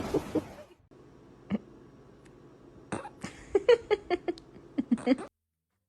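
A dog making a quick run of short, pitched yips and huffs over a faint steady hum, beginning about halfway through and cutting off abruptly.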